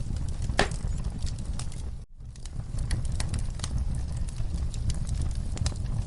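Wood fire burning in a fireplace: a low steady rumble of flames with frequent sharp crackles and pops. The sound drops out for a split second about two seconds in.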